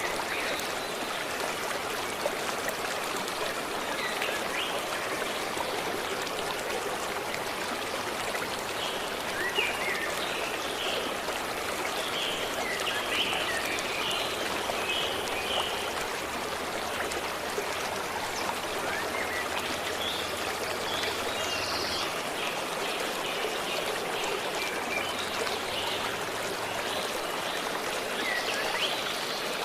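A forest stream running and trickling steadily, with scattered short bird chirps over it, most through the middle of the stretch.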